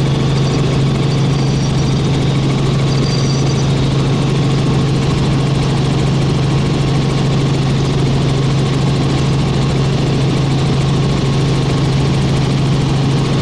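Helicopter engine and rotors running steadily in flight, heard from inside the cabin as a constant loud drone with a strong low hum.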